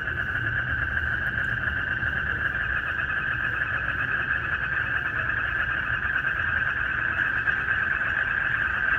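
Frogs and crickets calling in a dense, unbroken night chorus, a steady pulsing trill, with a low rumble underneath.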